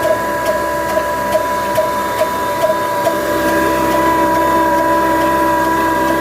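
Old desi diesel engine of the Ruston type, running steadily while driving a flour mill, with a regular beat a little over twice a second over a steady high whine.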